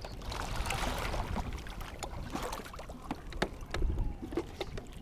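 Water splashing and trickling beside a kayak, with scattered small knocks and clicks of handling on the boat.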